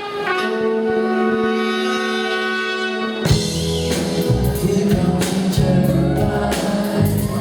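Live rock band's horn section holding a sustained chord, then the rest of the band comes in with drums about three seconds in, opening the song. Recorded from the audience on a camcorder.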